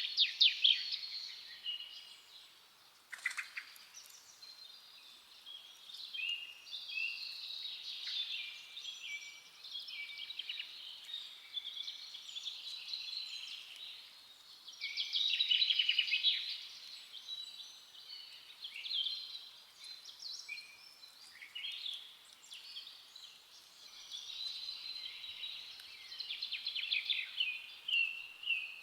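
Several songbirds chirping and singing at once in a continuous, overlapping forest dawn-chorus style, with a single sharp click about three seconds in.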